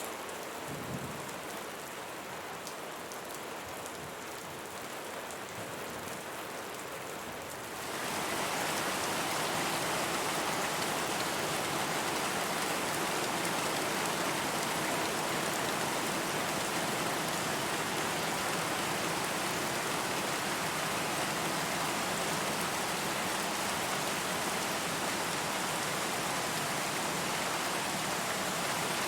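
Steady rain, with separate drops pattering at first. About eight seconds in it changes abruptly to a louder, denser, even hiss of heavy rain.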